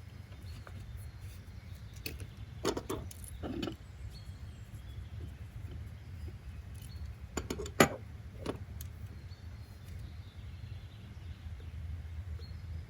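Steady low background hum with scattered light knocks and clicks, the sharpest about eight seconds in.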